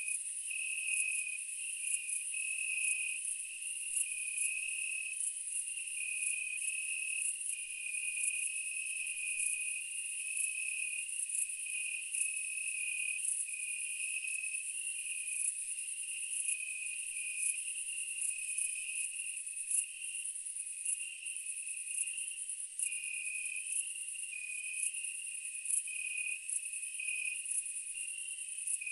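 Insects chirping, a steady chorus like crickets: a continuous high trill full of quick ticks, over a lower chirping that steps up and down in pitch about once a second. No low rumble or blasts are heard.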